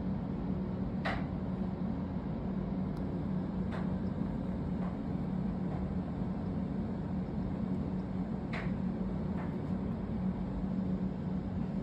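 Steady low mechanical hum, with a few faint clicks at irregular moments.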